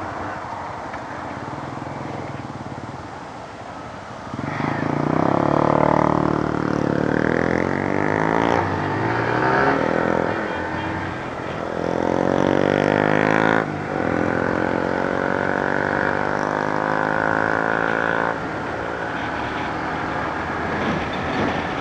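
Motorcycle engine accelerating through the gears after a few seconds of quieter running. The revs climb, drop back at each gear change and climb again, about four times.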